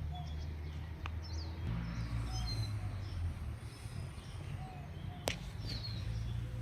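Birds chirping in short calls over a low steady rumble, with a few light clicks and one sharper click about five seconds in.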